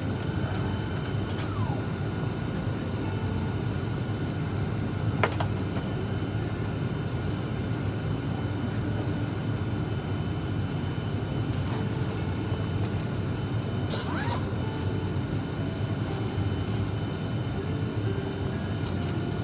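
Small propeller aircraft's engine running, a steady low rumble.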